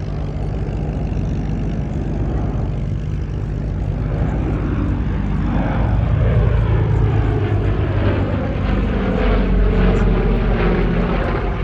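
Douglas DC-6B's four 18-cylinder radial piston engines and propellers droning in a flyby. It grows louder, and about halfway through the pitch falls as it passes.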